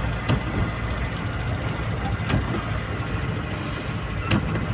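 Wind buffeting the microphone in a rain storm: a steady low rumble, with three short knocks, about a third of a second in, about halfway through and near the end.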